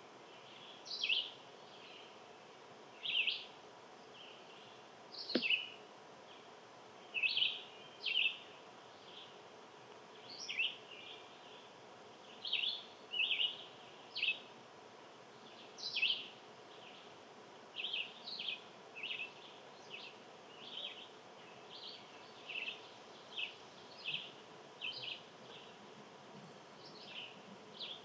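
Small birds chirping: short, sharp chirps repeated irregularly, about one or two a second.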